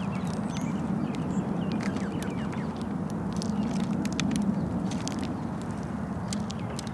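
Birds feeding: scattered sharp clicks and taps of pecking at seed, with a few brief high chirps, over a steady low rumble.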